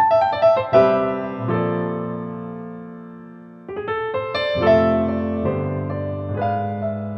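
Slow, soft piano music: chords and single notes struck and left to ring and fade, with a short lull before a new phrase begins about halfway through.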